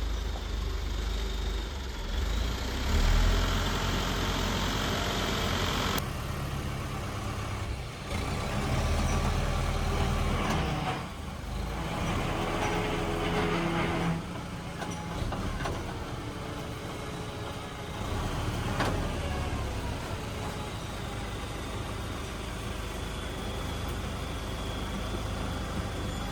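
Engine of a hazelnut threshing machine (patoz) running steadily, its sound shifting a few times as the load changes.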